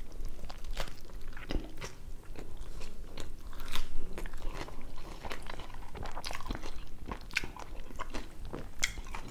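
A person biting and chewing a mouthful of double bacon cheeseburger loaded with raw vegetables (lettuce, pickles, jalapeños, bell peppers, onions), close to a clip-on microphone: irregular crunches and clicks of eating.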